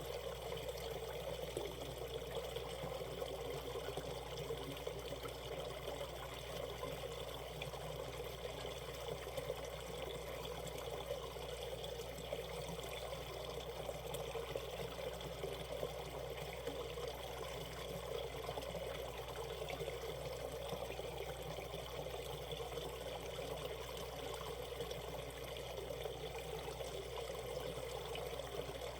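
Shallow mountain stream flowing steadily over rocks, an even, unbroken water babble.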